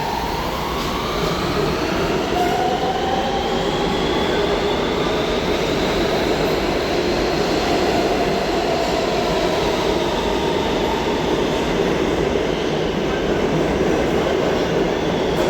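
New York City subway train running through the station: steady wheel and rail rumble with high whines that rise in pitch and later fall.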